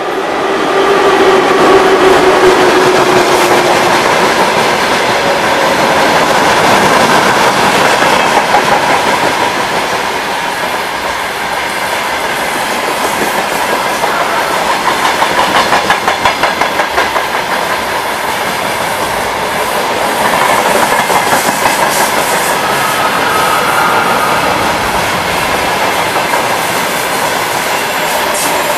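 A VL10 two-section electric locomotive passes close by with a steady tone in the first few seconds, followed by a long freight train of loaded wagons rolling past: a continuous rumble of steel wheels with rhythmic clickety-clack over the rail joints.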